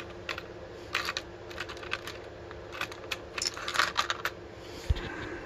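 Irregular light metallic clicks and taps of small lock pins and a key being handled and moved about on a hard surface.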